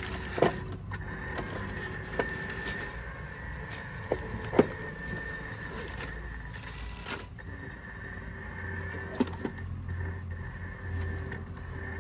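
Small electric motors of radio-controlled construction machines running with a steady whine and low hum, with several sharp clicks or knocks scattered through.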